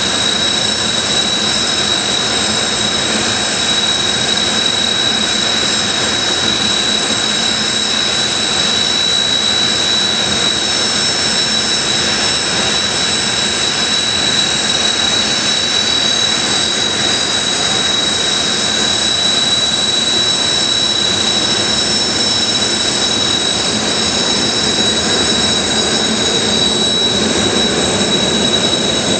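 Kawasaki T-4 jet trainers' twin turbofan engines running steadily at taxi power: a continuous jet rush with a steady, high-pitched whine over it.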